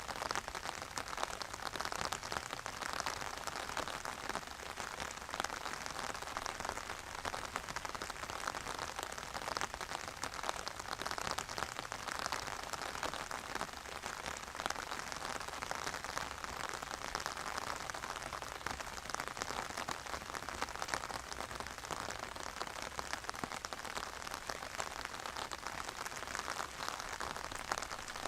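Steady rain falling, a constant dense patter of drops without let-up.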